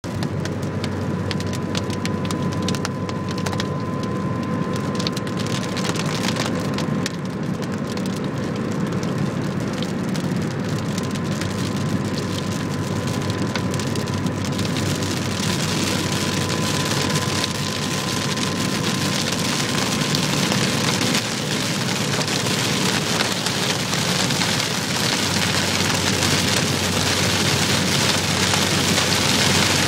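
Heavy rain striking a moving car over the low rumble of the road and engine. Separate drops tick sharply in the first half, then a steady hiss of rain and spray grows louder through the second half.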